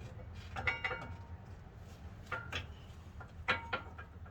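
Light metallic clinks, metal on metal with a brief ring, in three small clusters over the few seconds. A new front brake pad is being fitted into the caliper bracket.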